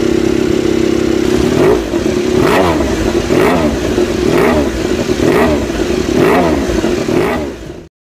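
Honda RC213V-S motorcycle's V4 engine idling, then revved in a series of about seven quick throttle blips roughly a second apart, the pitch rising and falling with each. The sound cuts off abruptly near the end.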